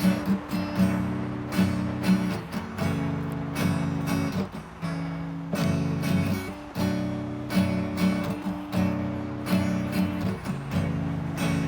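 Acoustic guitar strummed in a steady rhythm, changing chords every second or two: the instrumental introduction to a song, before the singing begins.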